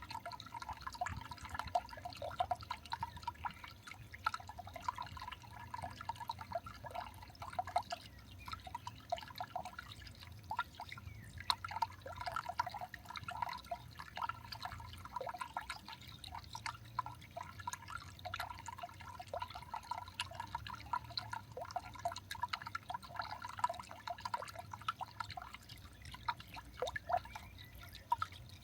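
Many quick, irregular light ticks and taps, several a second, over a faint steady low hum.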